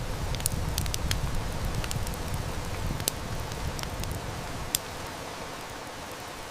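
Steady hiss of heavy rain with a wood fire crackling and snapping in scattered sharp pops. A low rumble rises at the start and eases off about five seconds in.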